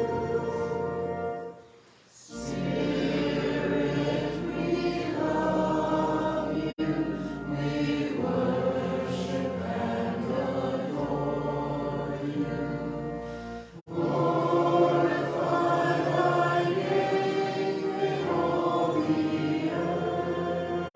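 A choir singing a hymn, held notes in sustained phrases that break off briefly twice, about two seconds in and about two-thirds of the way through.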